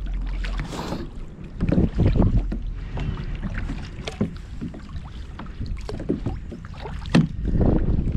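Water splashing and sloshing around kayaks in a run of irregular short splashes, with wind rumbling on the microphone.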